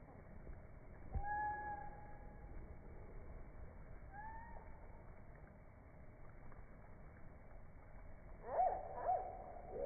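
Hummingbird chirps slowed down, so they come out low and drawn out. There is one long call about a second in, a shorter rising one about four seconds in, and a quick run of bending calls near the end.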